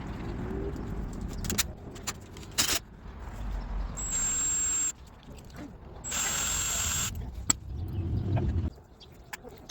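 A power tool runs in two short bursts of about a second each, with a thin high whine over a hiss, among sharp metal knocks and clanks of shop work.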